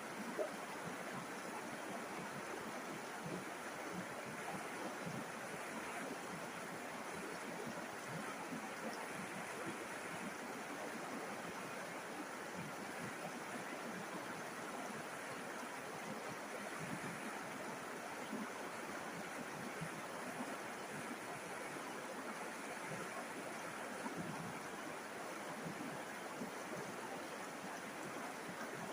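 River water flowing over stones, a steady, even rushing with small splashy flickers.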